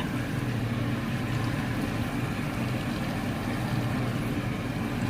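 A steady low hum with a faint hiss from the kitchen stove area while chicken cooks in oil in the pot. There is no stirring or clatter.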